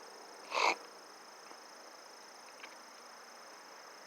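Steady high-pitched chirring of crickets or similar insects, with one short sharp call about half a second in.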